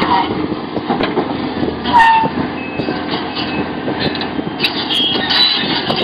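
Sumitomo SH700LHD-5 excavator working. The machine runs steadily under a dense scatter of metallic knocks and clanks, with brief high squeals, one of them about two seconds in.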